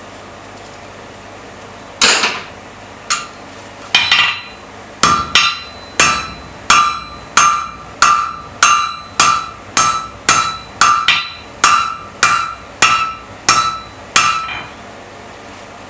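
Blacksmith's hammer striking hot iron on the anvil while forging a nail. Three spaced blows, then a steady run of about two blows a second for some nine seconds, each with a short metallic ring.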